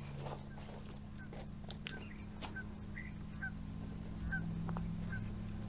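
A bird calling in short, high, repeated notes about twice a second, over a steady low hum.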